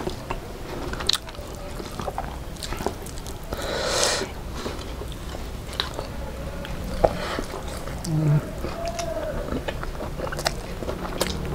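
Close-up eating noises of people eating rice and curry with their hands: wet chewing, lip smacks and scattered short mouth clicks, with a brief rushing breath about four seconds in and a short hum a little after eight seconds.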